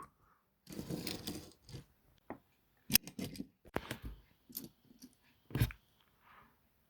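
Toy Thomas engine pushed off and rolling, a short rattling run followed by a series of light clicks and knocks. The loudest is a thump about five and a half seconds in.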